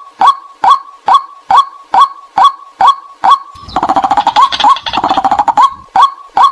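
White-breasted waterhen calls played as a trapping lure: a loud 'kwak' repeated evenly about twice a second. About three and a half seconds in, the calls turn into roughly two seconds of denser, harsher chattering, then the even calls resume.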